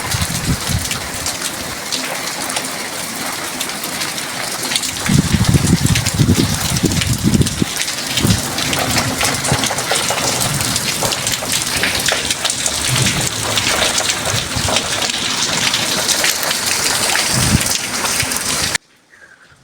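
Heavy rain pouring down hard in a thunderstorm, a dense steady hiss, with deep low rumbles about five seconds in and again shortly before the end. It cuts off abruptly near the end.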